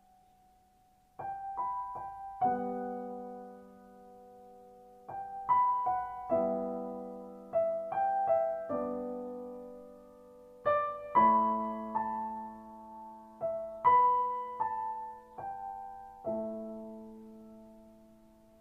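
Background music: a gentle, slow piano piece with single struck notes and chords, each left to ring and fade.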